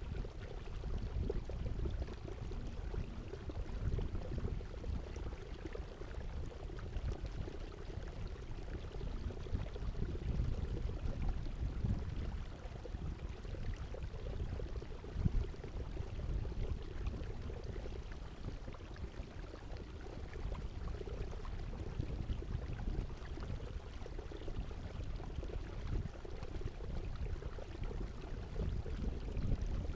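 Water sloshing and lapping against a kayak as it moves, a steady unbroken noise with a strong low rumble.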